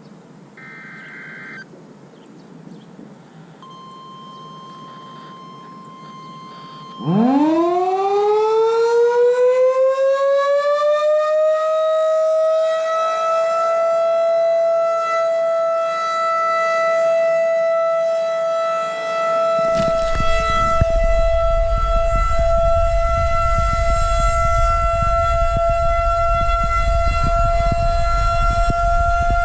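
Outdoor warning siren starting up about a quarter of the way in: its pitch winds up over several seconds as it spins up, then it holds a steady tone for a tornado drill test. A low rumble joins it about two-thirds of the way through.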